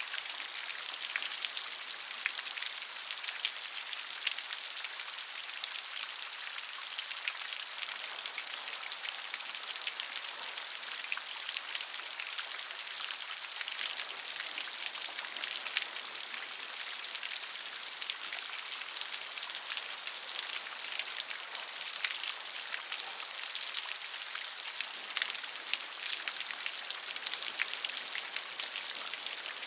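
Steady rainfall: an even hiss of rain with many fine, crisp drop impacts pattering on a surface.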